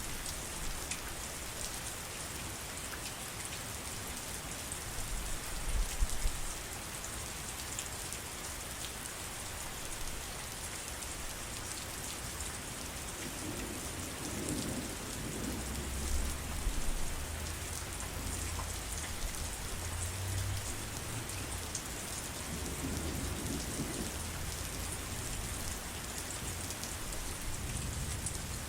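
Steady heavy rain falling, with a few low rumbles of thunder: a short one about six seconds in and longer swells around the middle and later.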